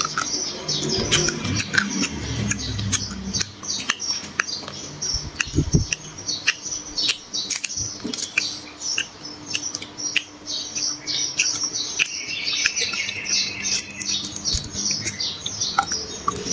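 Close-miked chewing of crispy grilled water snake: a dense, irregular run of small crunches, crackles and mouth clicks, over a faint steady hum.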